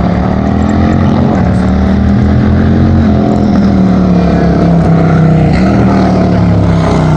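Car engine running loud under steady throttle, its pitch holding fairly level with a small dip and recovery about five seconds in.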